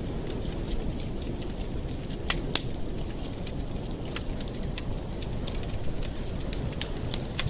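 Campfire burning, a steady low rumble of flame with irregular sharp crackles and pops from the wood, the loudest two close together a little over two seconds in.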